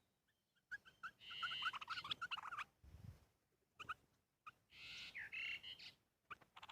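Small birds chirping: quick high chirps come in two busy bursts, one about a second in and another near the five-second mark, with single chirps in between.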